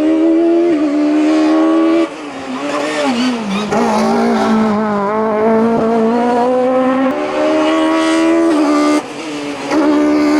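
Competition car engine at full throttle on a hillclimb. It holds high revs, then lifts about two seconds in with the revs falling away, pulls hard again with rising pitch, and lifts briefly once more near the end.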